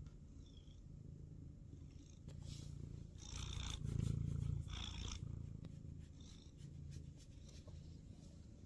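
Domestic cat purring close by: a low rumble that swells and fades in cycles of about a second, louder for a moment about three to five seconds in.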